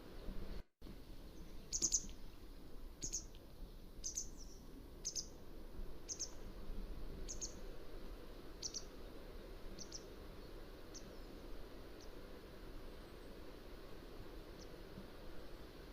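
Mountain wagtail giving a series of short, sharp, high calls about once a second, growing fainter after about ten seconds. A brief dropout to silence comes near the start, over a steady low background noise.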